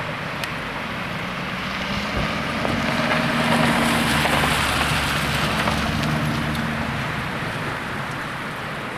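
Strong wind rushing, swelling to its loudest about four seconds in and then easing off, over a low hum.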